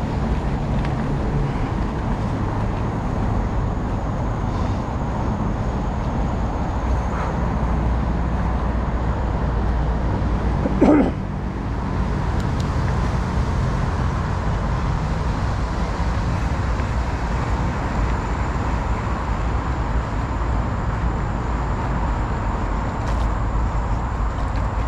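Steady low outdoor road noise, broken once about eleven seconds in by a single short call, like a dog's bark.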